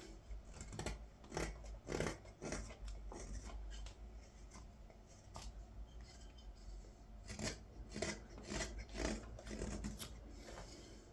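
Carving knife shaving green wood in a series of short slicing cuts, irregularly spaced, with a lull of a couple of seconds in the middle: paring away the rough axe marks on a ladle blank.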